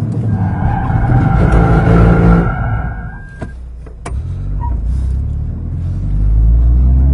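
Car engine running with a low rumble, a steady high whine over it for about the first three seconds, and two sharp clicks near the middle.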